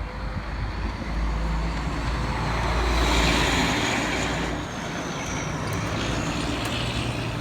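A road vehicle going by: a rumble and road noise that swell to a peak about three seconds in and then ease off.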